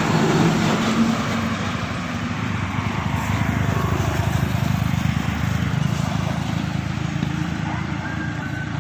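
Diesel trucks passing on a hill road: a steady engine drone with road noise, loudest about the first second in.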